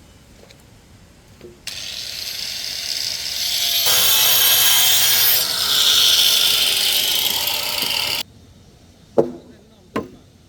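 A power tool working on wood runs unbroken for about six and a half seconds, then cuts off suddenly. Two sharp knocks follow.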